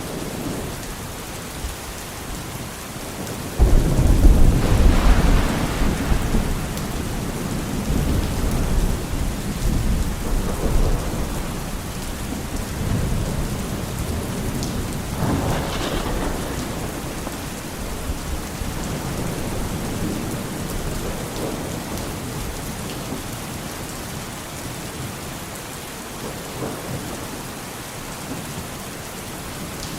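Steady rain with thunder: a loud, low rumble breaks in about four seconds in and rolls on for several seconds, and a second, sharper thunderclap comes about halfway through.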